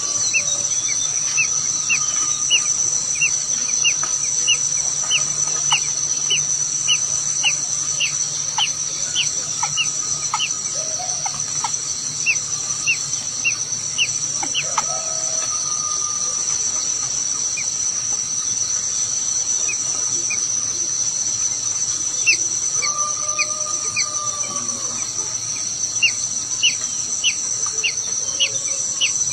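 Small bird chirping in runs of short, high, rising chirps, about three a second, with pauses between the runs. A steady high insect drone, like crickets or cicadas, continues underneath.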